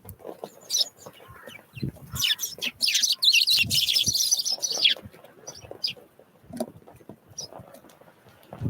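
Small wild birds calling at a feeder, with short high chirps and, about two seconds in, a loud burst of rapid chattering that lasts about three seconds. Soft thumps and knocks from the birds moving about the feeder come in between.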